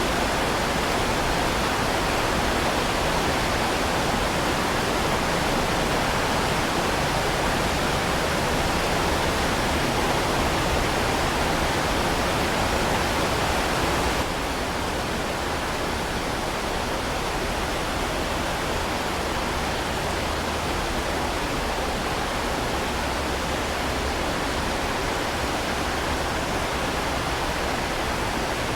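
Heavy rain falling in a steady, dense hiss with no separate drops or thunder. It turns slightly quieter about halfway through.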